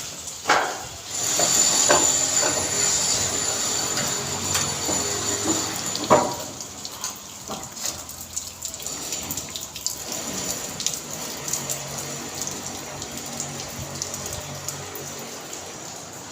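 Rain with water running and splashing, full of small drips and patters, with two sharp knocks, about half a second in and about six seconds in; after the second it grows quieter.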